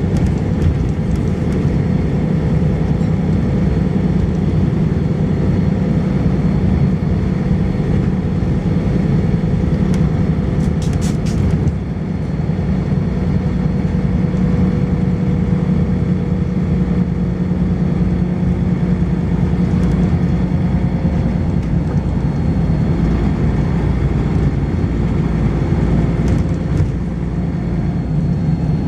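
Volvo B10BLE bus engine and ZF automatic gearbox running steadily under way, heard from inside the bus, with a faint high-pitched whine over the engine note. There is a brief patter of rattles about ten seconds in.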